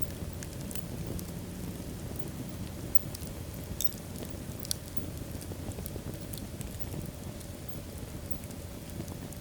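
Wood fire burning in a fireplace: a steady low rumble of the flames with scattered sharp crackles and pops, a few of them in quick clusters.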